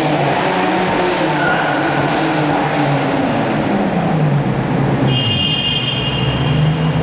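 Performance car engines revving and accelerating in a road tunnel, their pitch rising and falling through the gears. A high whistle sounds over them from about five seconds in until near the end.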